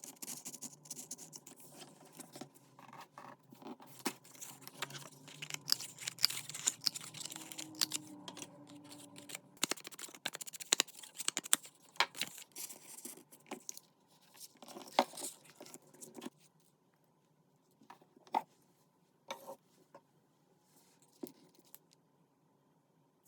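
Paper and craft materials being handled at a desk: busy rustling with many small clicks and taps, thinning after about sixteen seconds to a few separate taps.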